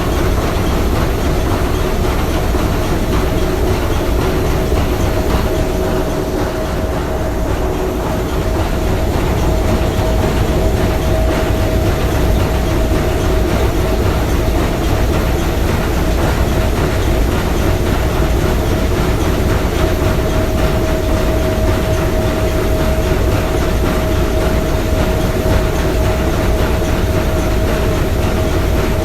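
Three-cylinder triple-expansion marine steam engine running steadily, a dense rhythmic clatter of its moving parts with a steady tone above it.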